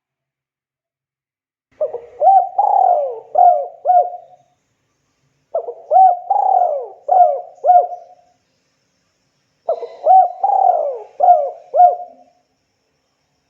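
Spotted dove cooing: three phrases, each a quick run of four or five short coos, roughly four seconds apart.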